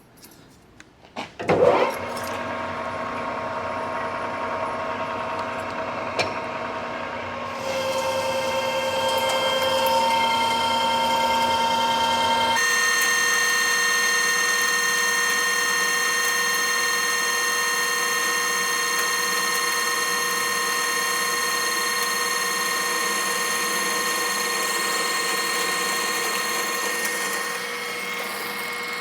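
Precision Matthews metal lathe running a facing cut on a pipe flange, with a steady gear whine made of several tones. A short knock comes about a second and a half in. The whine grows louder and shifts pitch about seven seconds in, and again about twelve seconds in.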